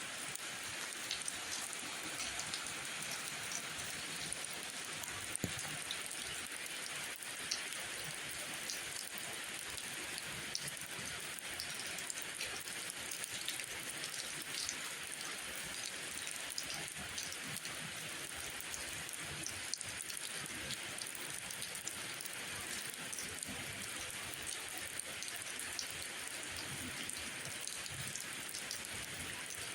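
Steady rain falling, an even hiss dotted with many small sharp drop taps.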